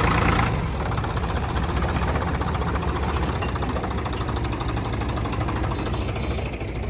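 Farm tractor's diesel engine running steadily with an even low drone, after a brief rush of noise in the first half second.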